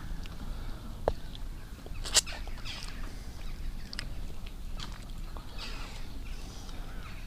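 Faint, scattered bird calls over a steady low background, with a few light clicks and one sharper tap about two seconds in.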